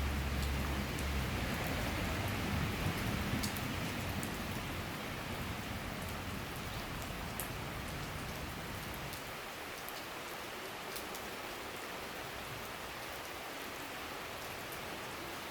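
Steady summer rain shower falling, a continuous hiss with scattered sharp drop ticks. A low rumble under it in the first few seconds fades away.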